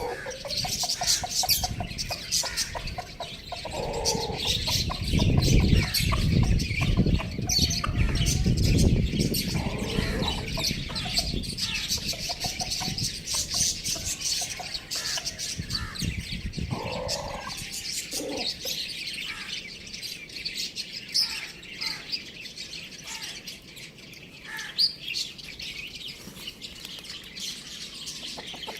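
Many small birds chirping and chattering without pause, with a few lower, louder calls at about 4 s and again around 17 to 18 s. A low rumble runs under the first half or so and then drops away.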